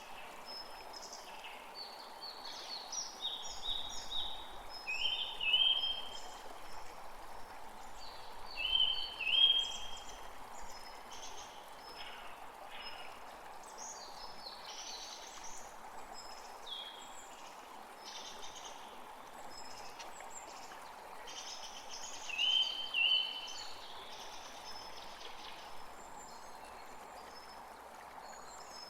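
Wild birds chirping and calling, with many short high calls throughout; the loudest are quick pairs of notes that come back a few times. Underneath runs a steady background rush.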